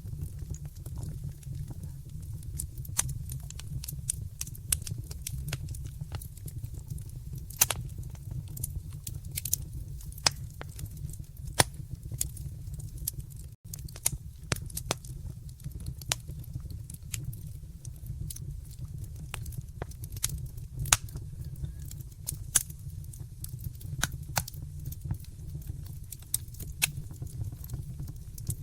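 Wood fire in a fireplace crackling, with sharp pops at irregular intervals over a steady low rumble of the flames. The sound cuts out for a split second about fourteen seconds in.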